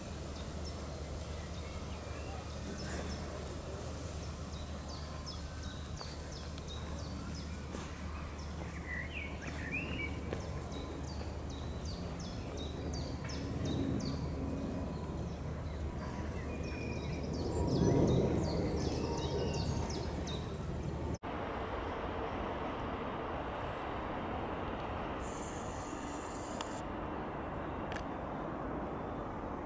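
Small birds chirping in many short, high calls over a steady low rumble of background noise. About 21 seconds in the sound cuts abruptly to a plainer noise bed with a brief high hiss.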